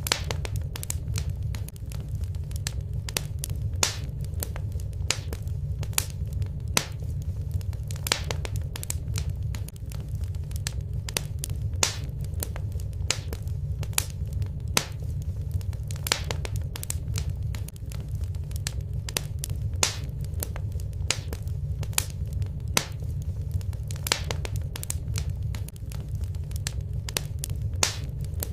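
Fire burning in a fireplace, with irregular sharp crackles and pops, several a second, over a steady low rumble.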